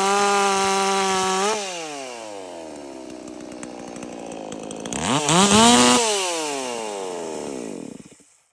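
Stihl MS440-clone two-stroke chainsaw with a modified muffler, held at high revs and then let off so the revs fall away. About five seconds in it is blipped once, a quick rise in pitch and back down, then it winds down and cuts off near the end.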